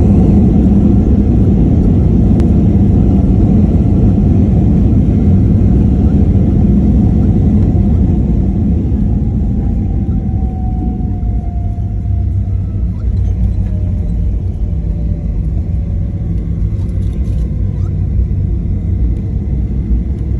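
Aircraft landing roll-out: a loud, steady low rumble that eases off about eight seconds in as the plane slows, with a faint whine falling slowly in pitch.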